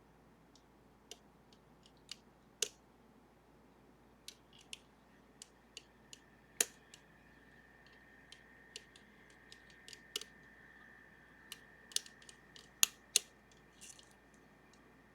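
Lock picks working the lever packs of a Sargent and Greenleaf 4440 series safety deposit box lever lock: light metallic clicks and ticks at irregular intervals, a few of them sharp and loud. A faint thin high tone is held for several seconds in the middle.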